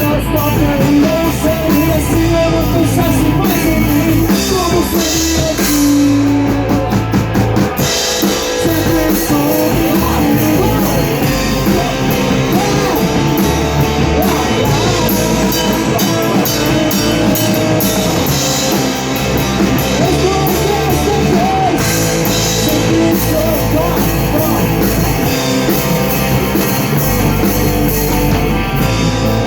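Rock band playing live in rehearsal: a full drum kit with electric guitar, at a steady loud level throughout.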